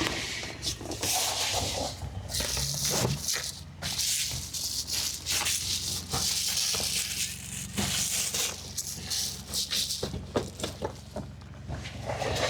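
Rustling and rattling of things being handled inside a car, with many sharp clicks, over a low steady hum from the car's air conditioning running on low.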